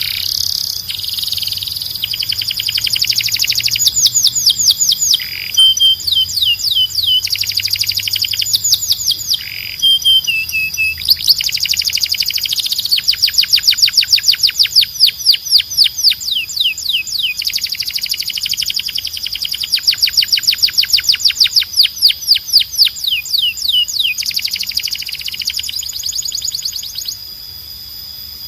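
Belgian canary singing: long rolling phrases of fast, repeated falling notes, broken by short pauses and changes of trill.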